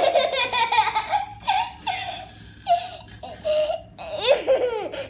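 A baby laughing in a string of short giggles, about eight bursts, ending in a few squealing laughs that swoop up and down in pitch.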